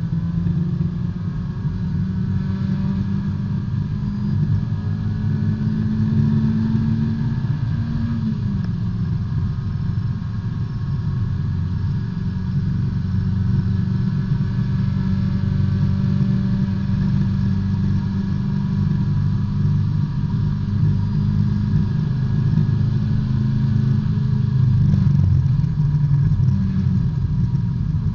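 Small four-cylinder engine of a B-Spec race car, heard from inside the cabin, running under load at high revs. Its pitch climbs slowly, drops sharply about eight seconds in, holds steady for a long stretch, then wavers and eases near the end.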